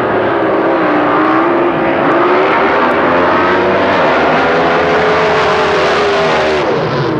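Racing drag boat engine running at full throttle down the course, a loud steady drone whose pitch dips near the end.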